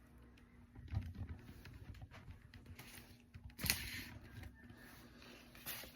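Quiet, soft knocks and rustling, with a louder thud about a second in and a sharper knock a little past halfway.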